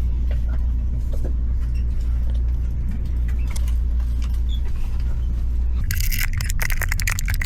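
Steady low rumble of a car cabin on the move. About six seconds in, the rumble changes and a rapid run of clicks and rattles begins.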